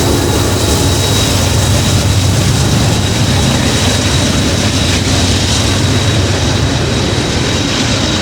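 Norfolk Southern intermodal freight train passing close by: a loud, steady rumble of diesel engines and rolling cars, with a thin high tone held throughout.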